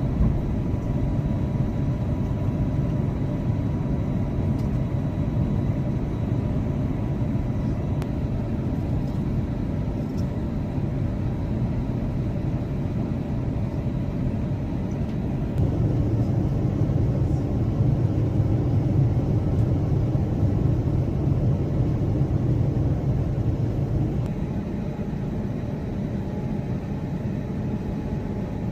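Airbus A350 cabin noise heard from inside the cabin: a steady low rumble of airflow and engines. It grows louder for several seconds about halfway through, then eases back.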